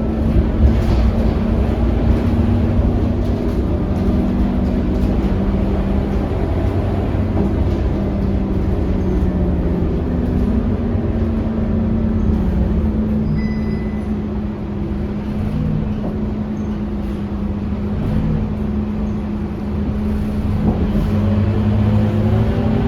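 Scania K230UB city bus with its nine-litre five-cylinder diesel running under way, a steady low engine hum and rumble whose pitch shifts as the bus changes speed, rising near the end as it pulls away.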